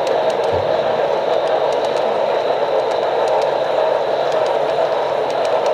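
HO-scale model train cars rolling past on the track: a steady, even clatter of small wheels on rail with faint scattered clicks.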